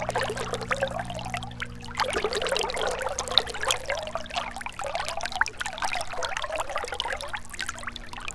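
Gentle river water trickling and gurgling over stones, a steady busy wash of small splashes, with a faint low hum underneath.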